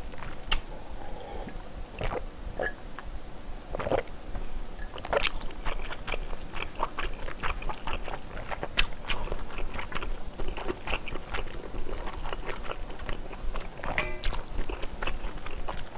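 Close-miked mouth sounds of a person eating spicy seafood knife-cut noodle soup: chewing and biting noodles, with many small irregular clicks and a few louder knocks.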